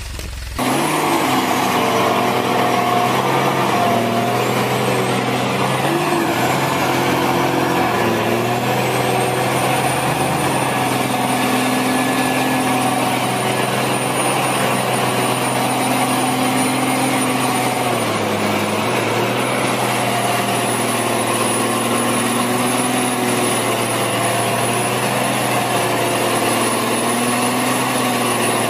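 Heavy vehicle engine running steadily, its pitch rising and falling slightly, with a thin high whine above it. The sound cuts in abruptly about half a second in.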